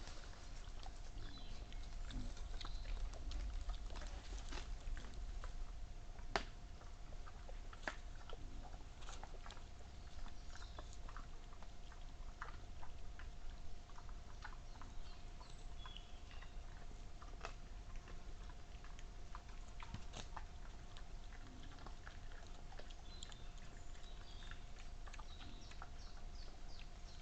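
Wild boar feeding on animal remains, with scattered crunching, chewing and snapping clicks. A faint steady hum runs underneath.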